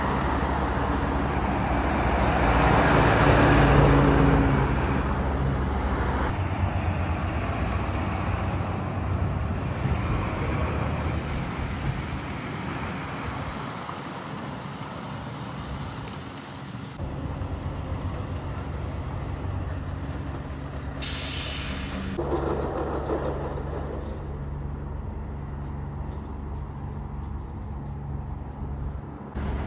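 Lorry diesel engines running as trucks pass by and idle, louder as one goes past a few seconds in. About two-thirds through there is a short, sharp hiss.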